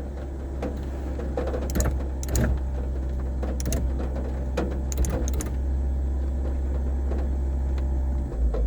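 Car engine running at a steady low drone, not revving here, with several sharp clicks or taps over it between about two and five and a half seconds in.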